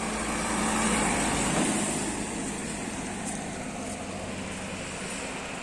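Road vehicle engine and road noise, swelling about a second in and easing off again.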